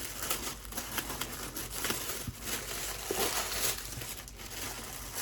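Packaging being handled and unwrapped: irregular crinkling and rustling of paper or plastic wrap, busiest a little past the middle.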